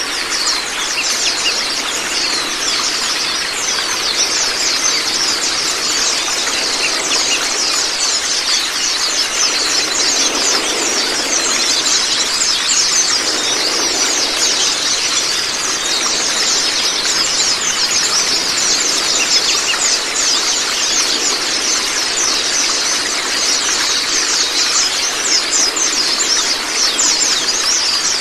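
White-eyes (Zosterops) singing in dense, rapid high-pitched chirps without pause, over a steady rush of flowing water.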